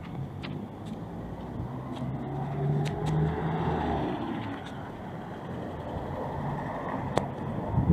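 Car engine running close by in street traffic, its hum swelling about three seconds in and then easing off, with scattered light clicks and a sharper click near the end.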